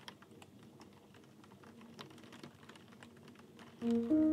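Faint, irregular light ticking of raindrops striking a window. Music comes in with a few rising notes near the end.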